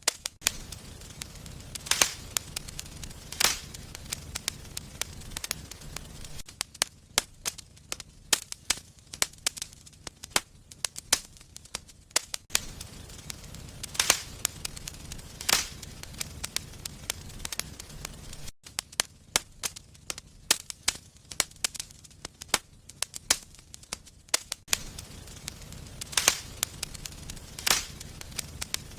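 Wood fire in a fireplace crackling, with frequent small snaps and several sharper pops, over a low steady rumble of the flames.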